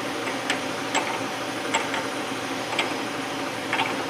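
Jeep Wrangler TJ engine idling steadily, with a few light ticks about once a second.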